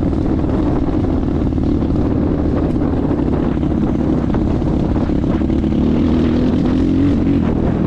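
250 cc enduro motorcycle engine running steadily under way, its pitch rising a little near the end, with a heavy low rumble of wind on the microphone.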